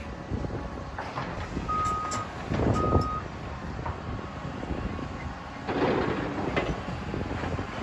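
A heavy machine's reversing alarm gives two beeps about two and three seconds in, over the steady low rumble of demolition machinery. Louder crashes of rubble come around three and six seconds in.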